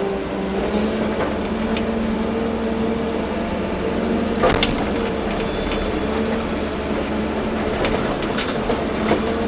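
Volvo EC240B excavator's diesel engine and hydraulics running under load: a steady drone with a tone that rises and falls slightly. A sharp knock comes about four and a half seconds in, with lighter clanks through the rest.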